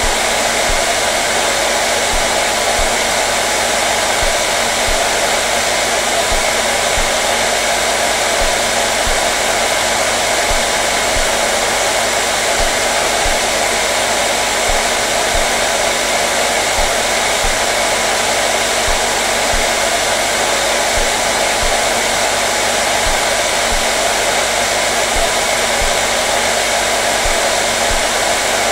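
Hand-held hair dryer running steadily: an even, unchanging rush of blown air with a faint motor hum beneath it.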